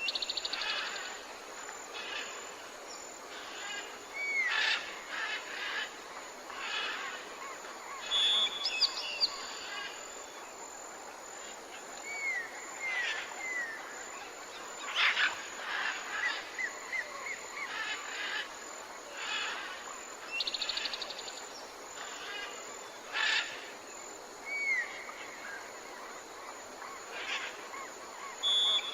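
Several songbirds calling and singing in a morning chorus: short whistled notes, chirps and brief rapid trills come one after another throughout, over a steady background hiss.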